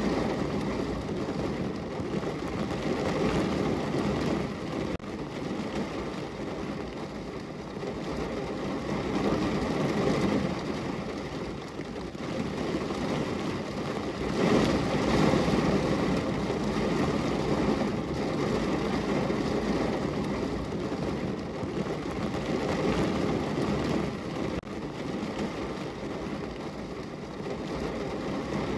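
Steady rain falling on a window pane, a dense rushing noise with a low rumble under it that swells about halfway through.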